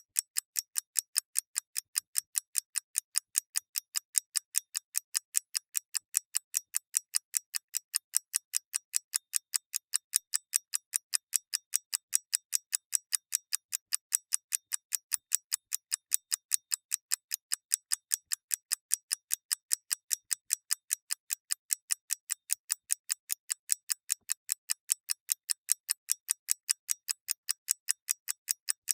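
Clock ticking: an even stream of sharp, high clicks, about three a second.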